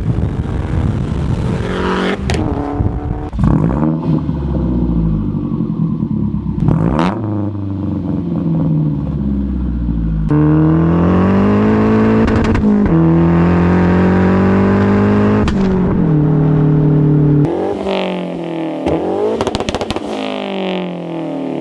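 Turbocharged 2.3-litre four-cylinder of a big-turbo Mazdaspeed 3 with a straight-pipe downpipe, revving and accelerating in several pulls, its pitch rising and falling, with a few sharp cracks in between.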